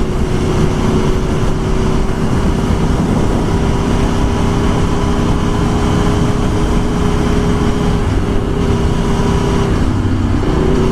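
Aprilia Tuono 1100's V4 engine running at a steady cruise under dense wind and road noise. The engine note dips briefly near the end and picks back up.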